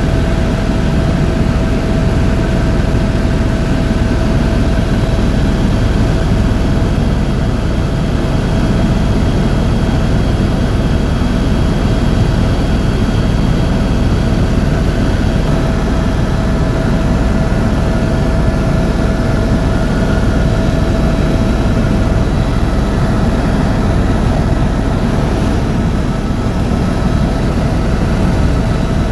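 Tour helicopter heard from inside the cabin: a loud, steady drone of engine and rotor with a constant thin whine running through it.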